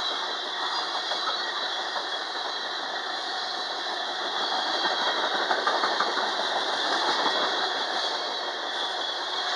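Freight train cars rolling past: steady wheel and rail noise, with faint clicking of wheels over rail joints around the middle.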